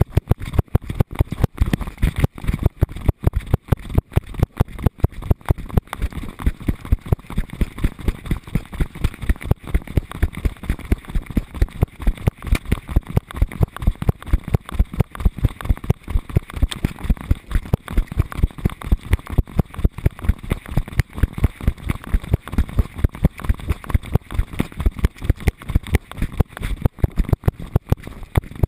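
A GoPro on a dog's harness knocking and jolting with each of the dog's strides: an even run of sharp thumps, about four a second.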